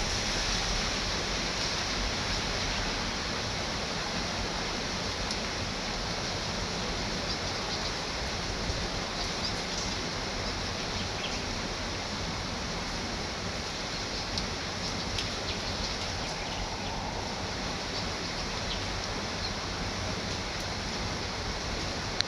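Heavy rain falling with wind: a steady, even hiss with a few faint ticks of drops.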